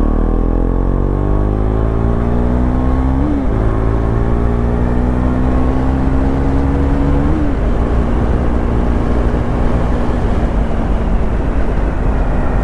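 KTM Duke 390's single-cylinder engine accelerating hard through the gears: the revs climb, drop at a shift about three and a half seconds in, climb again, drop at a second shift about seven seconds in, then hold steady. Heavy wind rush on a helmet-mounted mic with the visor open runs under it.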